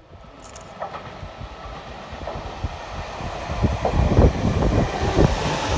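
Train running on rails, growing louder as it comes on, with irregular clatter of wheels over rail joints.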